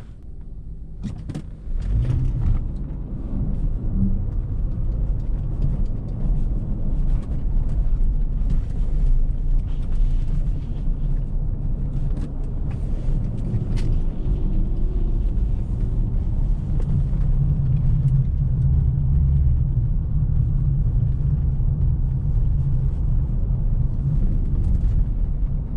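A car driving on a snow-covered road, heard from inside: a steady low rumble of engine and tyres that grows louder about two seconds in, with a few faint clicks and knocks.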